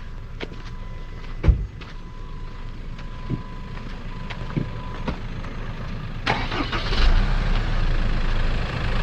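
A vehicle engine running low and steady, with scattered light clicks and one sharp thump about a second and a half in. From about six seconds in, louder engine and rushing noise comes in and builds.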